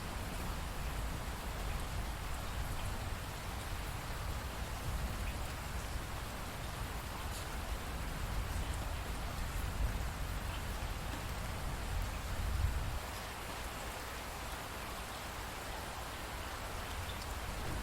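Steady rainfall, with scattered drops pattering on a surface and a low rumble underneath that swells slightly about three-quarters of the way through.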